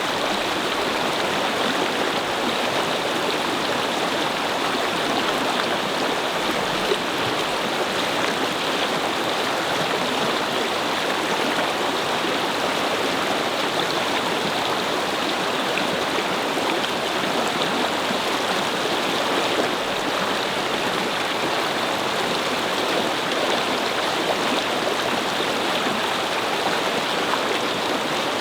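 A small brook flowing and babbling over stones, a steady rushing and gurgling of water.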